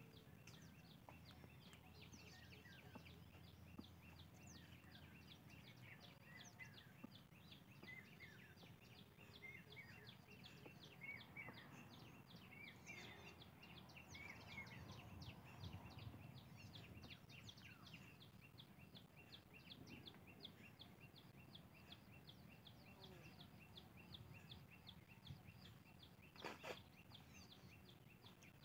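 Faint countryside ambience with birds: an even run of short high chirps, about four a second, and scattered brief calls. A single brief knock near the end.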